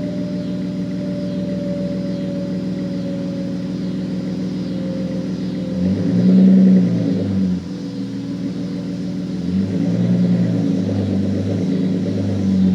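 Dodge Charger's 2.7-litre V6 running through Flowmaster 40 Series mufflers at a steady idle, blipped for a brief rev about six seconds in and revved lightly twice more near the end.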